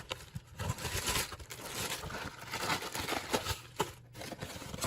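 Plastic food packaging crinkling and rustling as it is handled and opened, with scattered clicks and taps.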